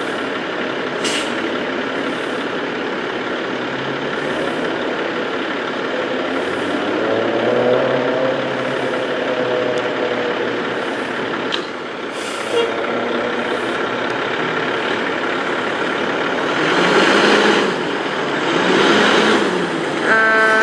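Diesel engine of a 2010 Spartan Gladiator fire engine running, with two bursts of air-brake hiss near the end.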